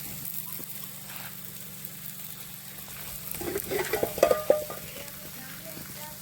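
Wood campfire crackling and hissing steadily, with a brief louder flurry of pops and squeaky whistles about three and a half seconds in.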